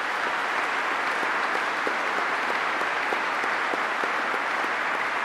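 A large audience applauding steadily: the sustained clapping of many people in a packed hall.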